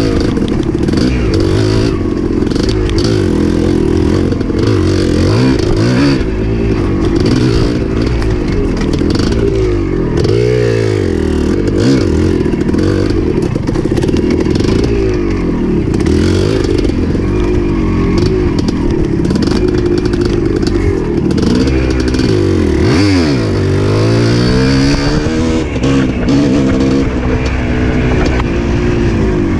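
Dirt bike engine running under load on a trail ride, its revs rising and falling over and over as the throttle opens and closes.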